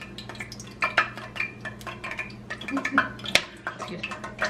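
Kitchen dishes, pans and utensils clattering in a run of sharp clinks and knocks, loudest about a second in and again around three seconds in, over a steady low hum.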